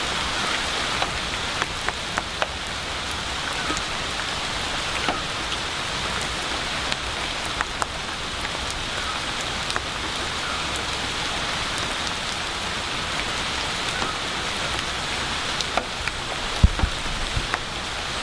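Steady rain falling on rainforest foliage, an even hiss scattered with many sharp individual drips. A heavier low thud comes about a second and a half before the end.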